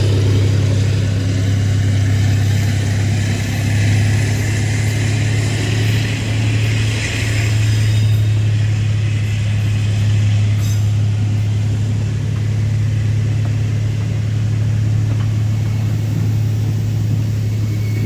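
Diesel locomotive engine running with a steady low drone, with a haze of rumble and rattle above it.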